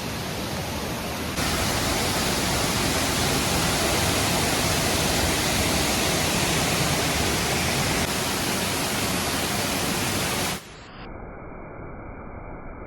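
A large waterfall pouring: a steady, even rush of falling water. About ten and a half seconds in it cuts off abruptly, leaving a fainter, muffled noise.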